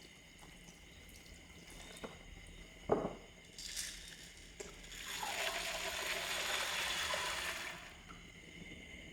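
Water pouring for about three seconds, starting and stopping smoothly, after a single sharp knock a few seconds earlier.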